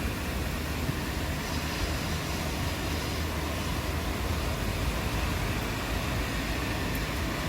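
Steady rain with a continuous deep rumble underneath.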